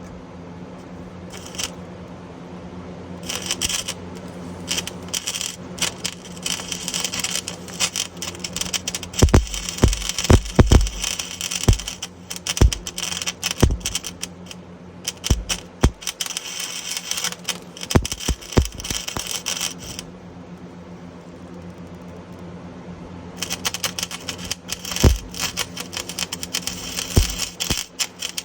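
Wire-feed MIG welder arc crackling and sputtering in runs of bursts while filling leak holes in a car exhaust pipe, over a steady low hum. The arc stops for about three seconds about two-thirds of the way through, then starts again.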